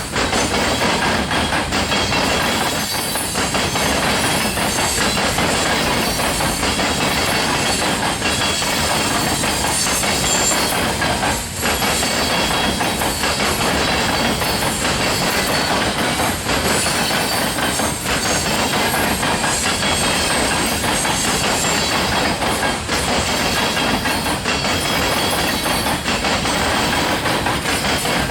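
Loaded freight cars of a rock train rolling past on the rails: a loud, steady din of steel wheels on track.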